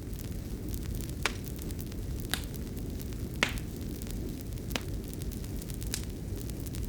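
Fireplace fire burning: a steady low rumble broken by a few sharp crackles and pops, the loudest about three and a half seconds in.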